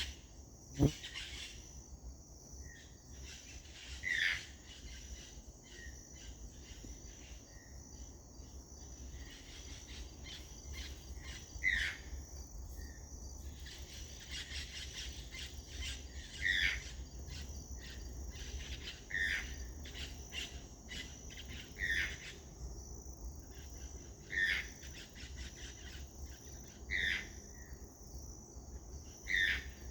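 A toucan giving short calls, one every few seconds, over a steady chorus of insects. A single sharp knock sounds about a second in.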